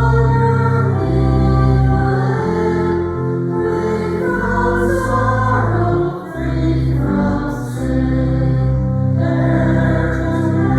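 A choir singing a hymn with instrumental accompaniment, the notes held and changing in slow steps over sustained bass notes.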